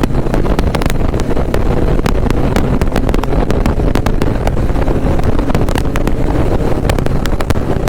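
Wind buffeting the microphone of a motorcycle riding at speed, with crackling gusts over a steady rumble of engine and road noise.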